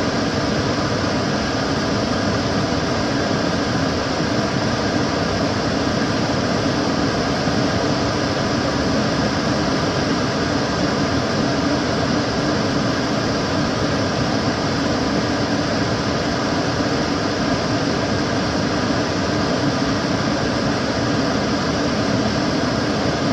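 Kitchen cooker hood's extractor fan running steadily, a constant whooshing rush of air with a low hum underneath and a few faint steady tones.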